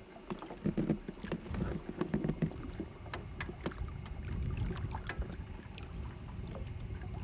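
Irregular clicks and knocks from a pike being handled in a small fishing boat, with gear and the fish knocking against the hull, over a steady low rumble of wind on the microphone.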